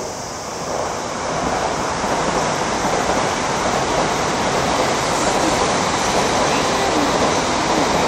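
Tokaido Shinkansen 700 Series train passing on its viaduct: a steady rushing roar that builds over the first second or two, then holds.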